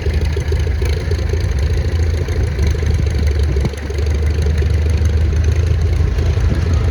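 Vintage farm tractor engine running steadily at low speed, a loud, even low hum.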